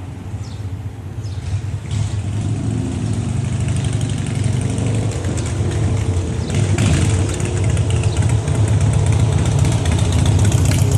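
Motorcycle engine running steadily, slowly growing louder.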